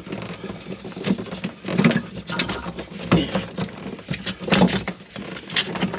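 Irregular knocks, clicks and rubbing of hands working a plastic livewell pump and its stiff hoses loose.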